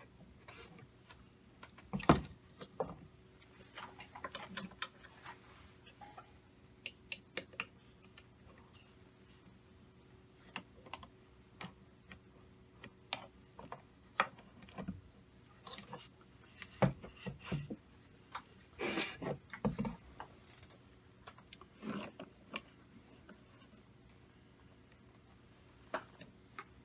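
Small metal engine parts and hand tools being handled: irregular clicks, clinks and knocks, with the sharpest knock about two seconds in and a busier run of knocks around two thirds of the way through, over a faint steady hum.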